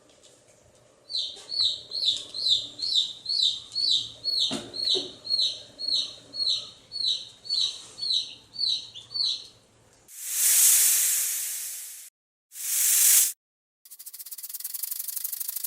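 A bird repeats a short, high chirp about twice a second for some eight seconds. Then, about ten seconds in, come three loud bursts of harsh hissing noise, the last with a fast rasping flutter in it.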